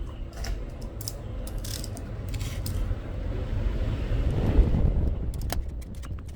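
Scattered clicks and clinks of small hard parts and tools being handled during a repair, over a low rumble that swells about four seconds in.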